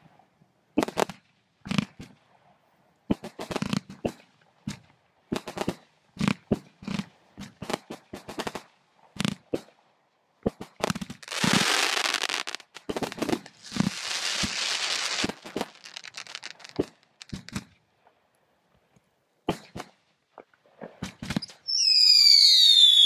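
Fireworks going off: a string of sharp bangs and pops throughout, with two stretches of hissing crackle in the middle. Near the end a whistling firework gives a loud, falling whistle.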